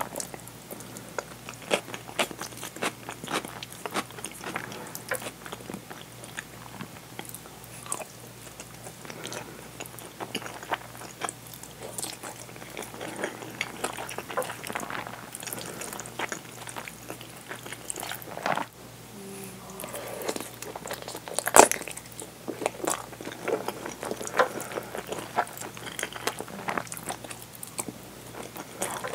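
Close-miked eating of curry rice with a fried egg: wet chewing, biting and crunching, with a wooden spoon scraping and tapping the bowl. A sharp click about three-quarters of the way through is the loudest sound.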